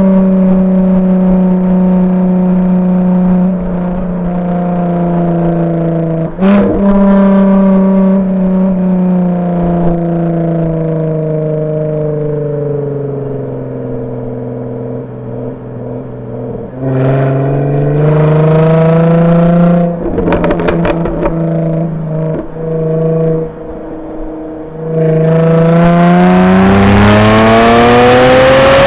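Jaguar F-Type V6S's supercharged 3.0-litre V6 through its factory active exhaust in Dynamic mode: the engine pulls steadily, then eases off with falling pitch, giving a few sharp pops and cracks on the overrun and shifts. Near the end it accelerates hard, the note rising and getting louder.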